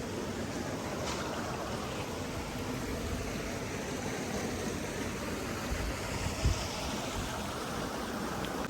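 Steady rushing of a flowing stream, with a short low thump about two-thirds of the way through.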